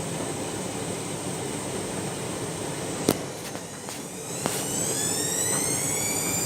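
Candy washing machine running with a steady whooshing noise, then a few sharp clicks, then its motor whine rising in pitch and levelling off as the drum speeds up. The machine is heavily over-sudsed, in what the owner calls a suds lock.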